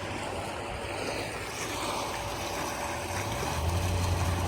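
Pool circulation equipment running: a steady rush of moving water with the low hum of a variable-speed pool pump, which gets louder about three and a half seconds in.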